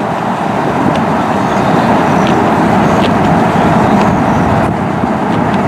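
Steady road and engine noise of a car driving, heard from inside the cabin, with a few faint light ticks.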